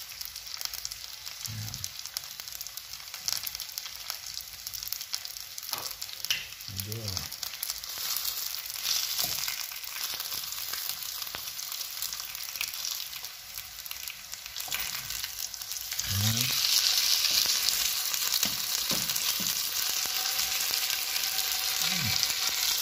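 Breaded chicken breasts frying in oil in a nonstick pan: a steady crackling sizzle that grows louder about two-thirds of the way through, with a wooden spatula moving the chicken near the end.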